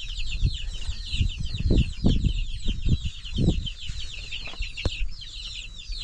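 A flock of chickens peeping and clucking continuously, many quick high chirps overlapping. Several low thumps come in the first three and a half seconds, and a sharp click near the end.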